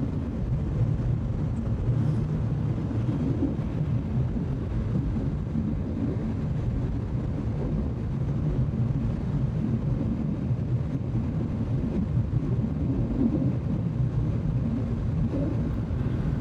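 Bajaj Pulsar 200 NS single-cylinder motorcycle riding steadily at highway speed, with a low engine and wind rumble on the bike-mounted camera's microphone.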